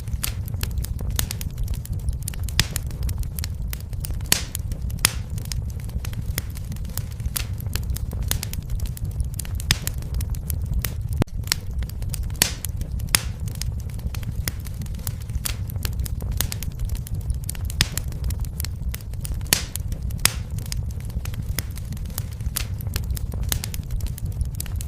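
Fire in a fireplace crackling, with frequent irregular sharp pops and snaps over a steady low rumble of flame.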